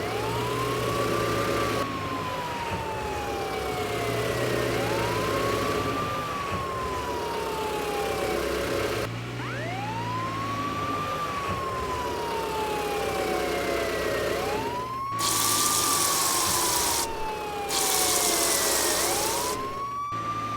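Emergency-vehicle siren wailing, each cycle a quick rise followed by a long slow fall, repeating about every four and a half seconds over a low engine hum. Near the end, two loud hissing bursts of about two seconds each join in.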